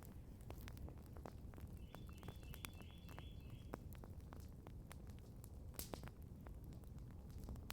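Campfire crackling quietly, with irregular sharp pops and clicks over a low steady rumble. A faint bird trill of rapid short high notes comes in about two seconds in and lasts about a second and a half.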